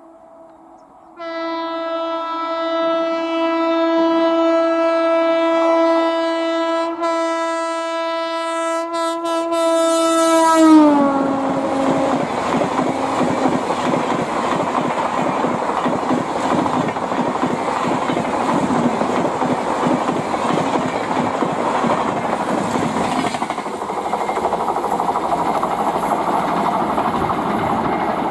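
Express train passing at speed: the locomotive's horn sounds long and steady, its pitch dropping as the locomotive goes by about ten seconds in. Then the coaches rush past with a steady rumble and wheel clatter.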